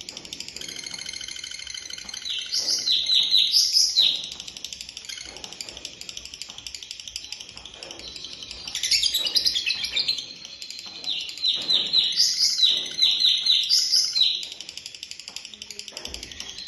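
A songbird singing: three loud phrases of fast, high chattering notes, each a second or few long, over a steady run of softer high twittering.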